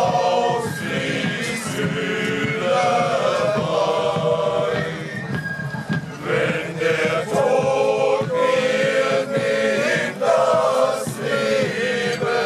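A group of voices singing a German song together, with long held notes.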